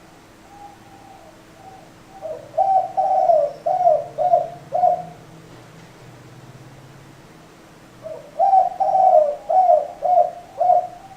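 Spotted dove cooing: two phrases of about five low coos each, a few seconds apart.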